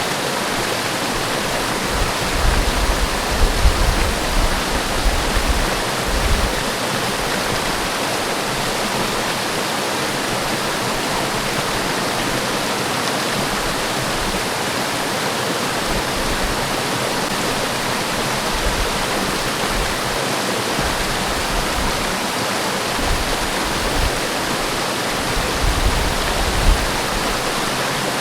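Forest waterfall rushing steadily, a dense even roar of falling water, with a few low rumbling surges about two to six seconds in and again near the end.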